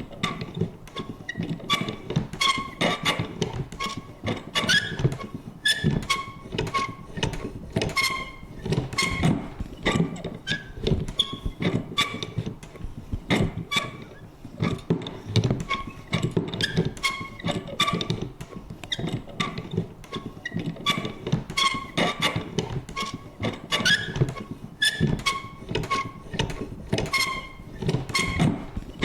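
Vintage paper punch worked over and over: repeated clicks and thunks of the mechanism, each with a short squeaky creak, in a rough, uneven rhythm.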